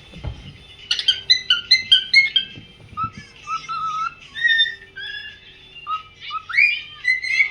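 Cockatiel singing: a string of whistled notes and pitch glides, with a quick run of short notes about a second in and a long rising whistle near the end.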